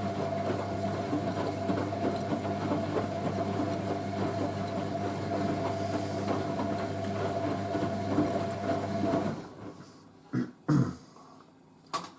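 Hoover A3060 Electronic 1100 front-loading washing machine turning its drum in a short tumble during the boilwash heat-retaining stage: a steady motor hum with water and laundry sloshing, which stops about nine seconds in. A few short knocks follow near the end.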